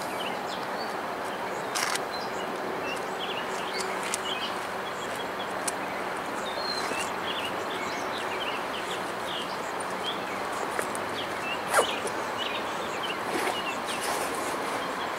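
Many short bird chirps over a steady outdoor hiss and a faint low hum, with one sharp click about twelve seconds in.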